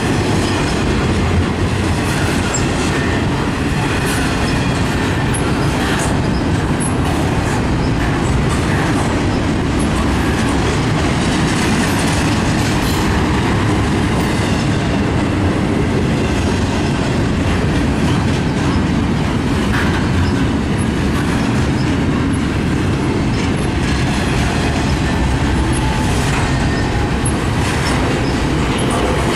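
Double-stack intermodal well cars of a freight train rolling past: a steady rumble of steel wheels on the rails, with scattered clicks.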